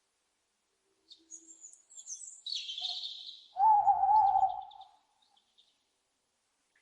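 An owl gives one loud, wavering call lasting about a second, midway through, preceded by a run of high, thin chirping calls. Faint high ticking calls trail off after it.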